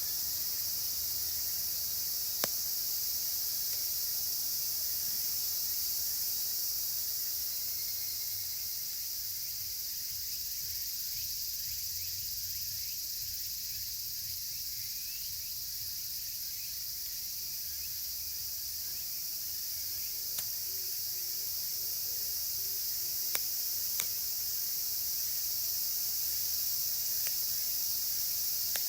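A dense, steady chorus of cicadas, among them evening cicadas (higurashi). A campfire gives a few sharp pops, mostly in the last third.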